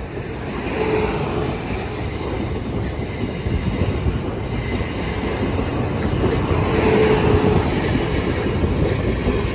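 Class 450 Desiro electric multiple unit passing over the level crossing: a steady rush and rumble of wheels on rail that builds in level. A brief steady tone sounds about a second in and again about seven seconds in.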